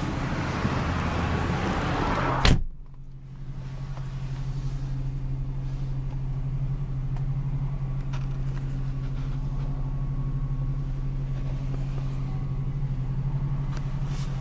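A car door shuts with a single sharp thump about two and a half seconds in. After it the outside noise drops away, and the 2001 Mercury Cougar's 2.5-litre Duratec V6 is heard idling steadily from inside the closed cabin as an even low hum.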